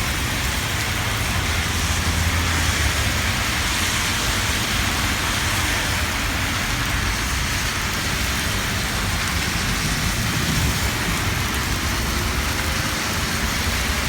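Heavy rain pouring steadily, with a low rumble about one to four seconds in.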